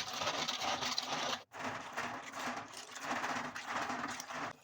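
Rapid, continuous knife chopping of vegetables on a cutting board, a fast run of taps with a brief break about a second and a half in, stopping abruptly near the end.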